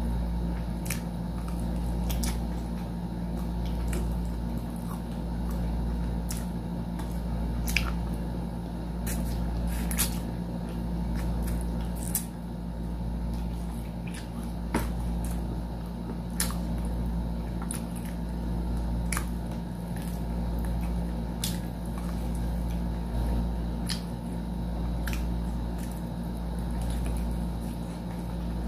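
Close-miked eating of fried chicken wings: chewing and biting mouth sounds with irregular sharp clicks, over a steady low background hum.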